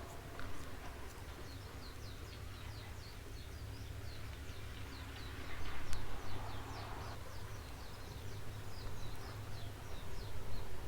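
Outdoor ambience of rapid, repeated short high chirps, several a second, from a small bird or insect, over a steady low rumble. About six seconds in there is a brief swell of hissing noise with one sharp click.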